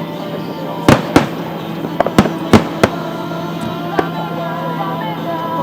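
Aerial fireworks bursting: a quick run of sharp bangs through the first half, then one more about four seconds in.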